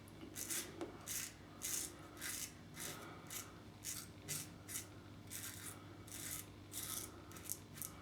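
Double-edge safety razor (Global Shave Club Rain with a Gillette Silver Blue blade) scraping through lathered stubble in quick short strokes, about two a second.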